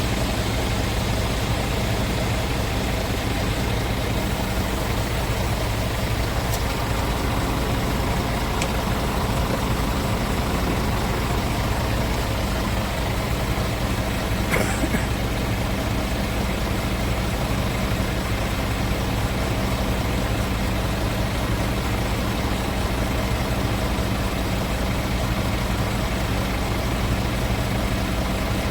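Scania S410 tractor unit's diesel engine idling steadily with a low, even hum.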